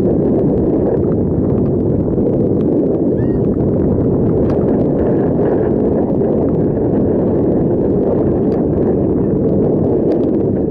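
Wind buffeting the microphone of a camera on a moving bicycle: a loud, steady, rumbling rush that comes on suddenly just before and drops away just after.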